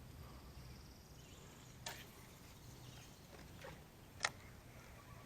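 Quiet outdoor background with faint high chirping and two sharp clicks about two seconds apart, the second one louder.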